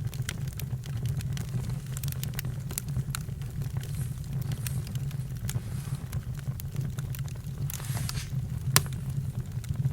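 Campfire crackling, with scattered sharp pops and one louder pop near the end, over a steady low rumble, and a brief hiss a little before it.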